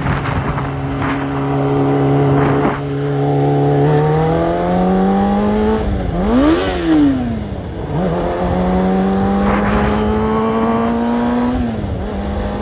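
Sport motorcycle engine under way. The pitch climbs gradually, jumps up and falls back quickly about six seconds in, holds steady, then drops near the end.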